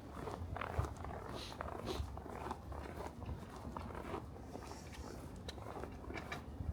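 Footsteps crunching through fresh snow at a steady walking pace, about two steps a second, over a low rumble.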